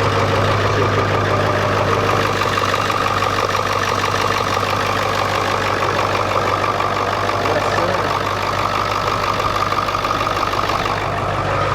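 Ford 7.3-liter Power Stroke turbodiesel V8 idling steadily, just after being started.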